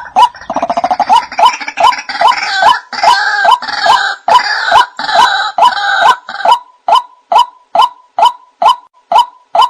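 White-breasted waterhen (ruak-ruak) calling: a steady run of short repeated notes, about two and a half a second, overlaid for the first two-thirds by a harsher, denser chattering. It is the bird's calling to others of its kind, played as a lure recording.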